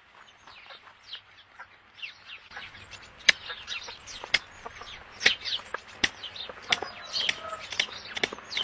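Chickens clucking amid a dense chatter of short, high chirping calls, with a few sharp clicks. The calls grow louder and busier from about two and a half seconds in.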